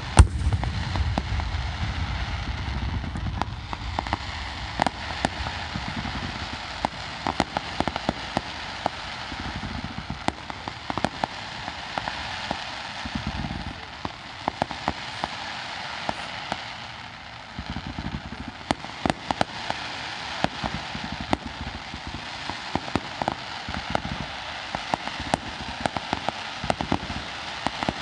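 Fireworks display: a loud bang at the very start, followed by continuous dense crackling with many sharp pops and cracks throughout.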